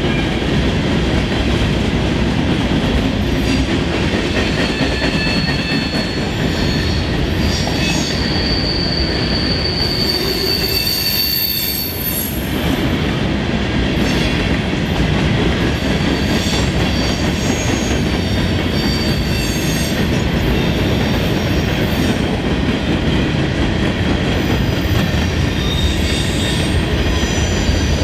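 Freight train of covered hopper cars rolling by, a steady rumble and clatter of wheels on the rails. A high-pitched wheel squeal comes and goes over it; the longest squeal is held for a few seconds about a third of the way in.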